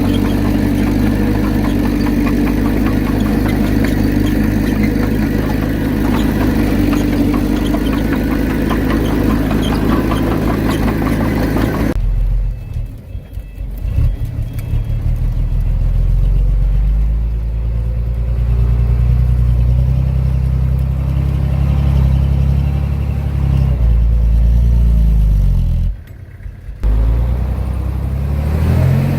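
Heavy diesel engine of earthmoving machinery working, with a busy clattering sound at first. About twelve seconds in, the sound changes abruptly to a deeper engine note that rises and falls in pitch, and it drops out briefly near the end.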